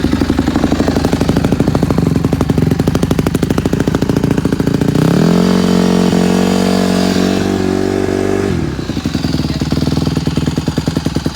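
2020 Honda CRF150RB's four-stroke single-cylinder engine running just after a cold start with the choke pulled, at a fast pulsing idle. About five seconds in the revs rise, hold steady for about three seconds, then drop back to idle.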